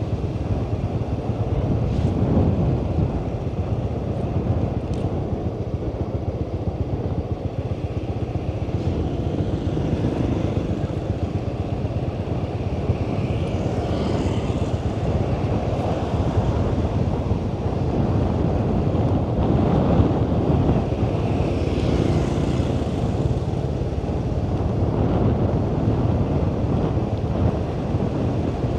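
Riding a motorbike at night: a steady low rumble of wind against the microphone mixed with the motorbike's running engine and road noise.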